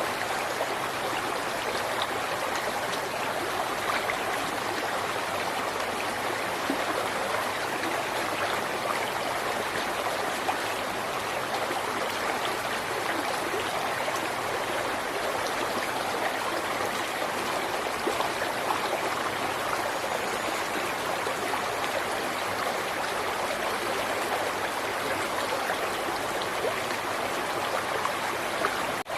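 River water flowing steadily over rocks, a continuous even rush with fine splashing detail.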